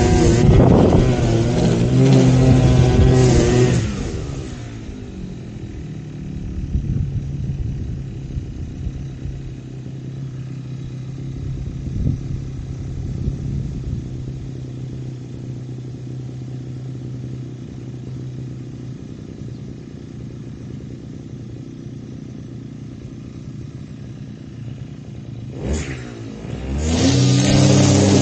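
Small petrol engine of a grass-cutting machine running at full throttle, then the throttle is let off about four seconds in and the pitch falls to a steady idle. Near the end it revs back up to full speed.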